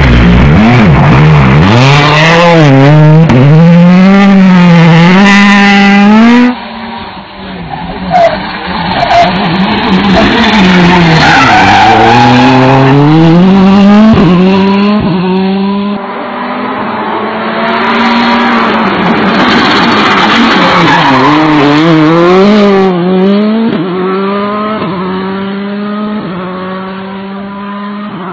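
Citroen rally car driven hard: the engine revs climb and fall again and again as it shifts through the gears, with tyre skid noise on the stage. The first passage is loudest, with several further passes after it.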